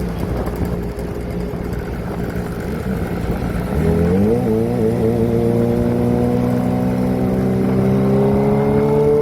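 Kawasaki ZX-25R's 249 cc inline-four running through a Prospeed aftermarket exhaust while riding, with road and wind noise at first. About four seconds in the engine pulls harder and gets louder. Its pitch climbs with a few quick wobbles, then rises slowly and steadily as the bike accelerates at high revs.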